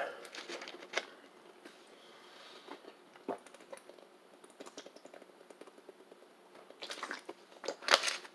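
Faint close-up chewing and mouth sounds of someone eating soft ground pork, with scattered small wet clicks. There are a couple of louder breathy sounds near the end.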